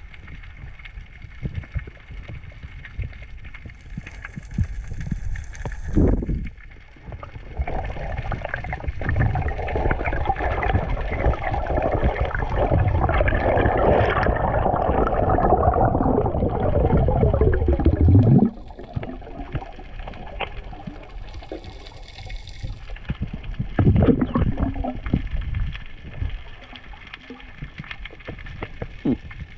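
Water gurgling and sloshing, with scattered thumps. The sound swells for about ten seconds in the middle, with a falling sweep near its end, then drops off suddenly.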